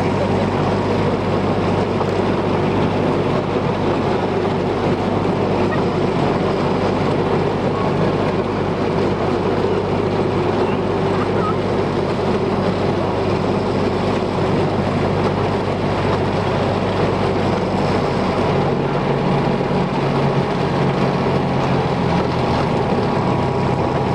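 Diesel locomotive engine running steadily, its note changing about 18 seconds in.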